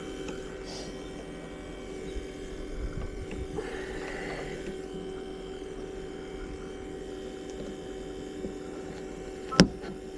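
A steady hum made up of several fixed tones, with a sharp click about nine and a half seconds in.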